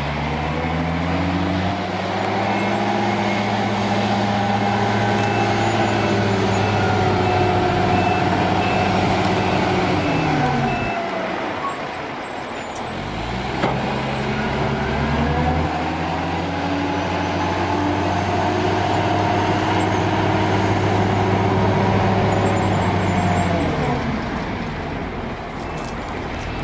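A heavy machine's engine revving up, holding at high revs for several seconds and dropping back, twice, then starting to rise again near the end, as when a work machine is put under load in cycles. A faint repeated beep sounds over the first few seconds.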